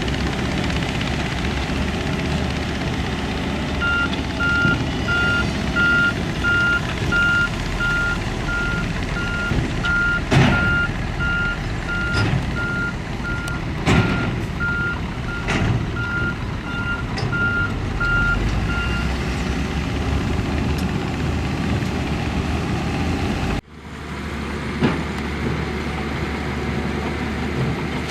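Heavy earthmoving machine's diesel engine running, with its reversing alarm beeping at an even pace for about fifteen seconds and several sharp clanks in the middle. The sound drops out abruptly near the end, then the engine noise comes back.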